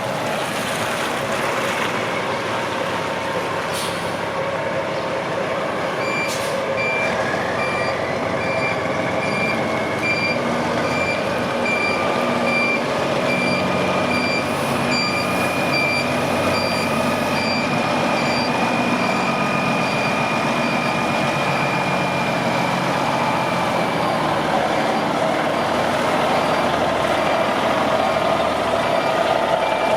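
Heavy diesel truck running, with a reversing alarm beeping steadily from about six seconds in: the truck backing up.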